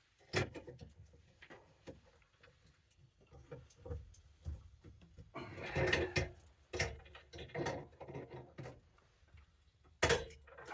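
Clatter of tools and metal parts being handled on an ice auger, with scattered irregular clicks and knocks, a busier stretch in the middle and two sharp knocks near the end.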